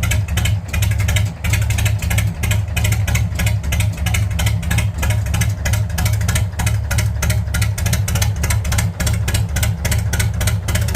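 Diesel engine of an old International tractor running steadily at idle, with an even, rapid knock.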